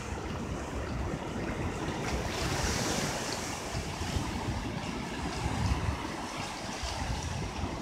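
Ocean surf washing onto the beach, with wind rumbling on the microphone; the wash swells a little louder and hissier around the middle.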